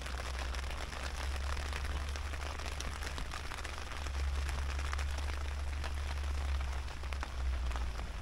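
Steady rain falling on a tarp shelter: an even hiss dotted with the ticks of single drops, over a low rumble.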